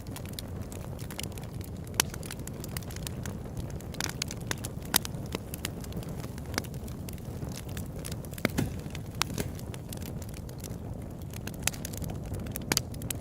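Open-air campfire crackling: frequent sharp pops and snaps over a steady low rumble, with the loudest pops about two and five seconds in.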